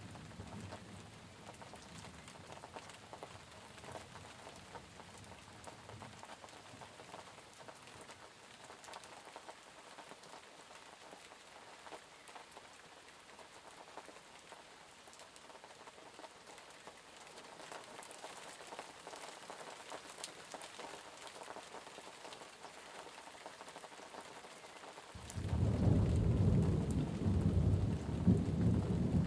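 Steady rain falling, with a fine patter of individual drops. About 25 seconds in a low rumble of thunder sets in suddenly and becomes the loudest sound.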